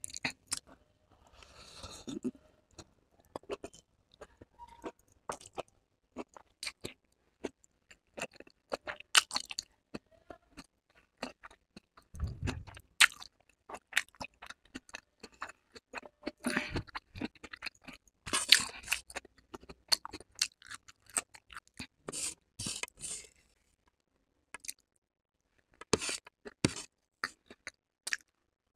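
Close-miked chewing of a handful of stir-fried chowmein noodles with capsicum: irregular wet mouth clicks and crunches, with a few short pauses.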